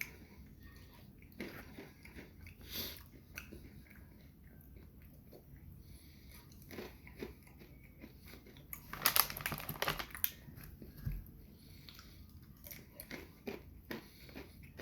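A person chewing and crunching small candy-coated chocolates (marshmallow crispy treat M&Ms) close to the microphone, in scattered crackles, with a louder flurry about nine seconds in.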